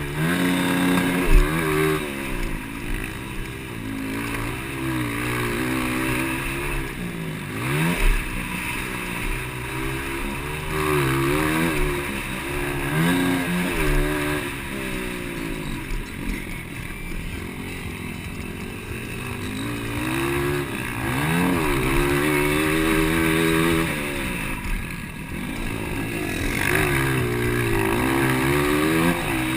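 200cc motocross bikes racing, their engines revving up and falling back over and over as the riders accelerate, shift and ease off around the track.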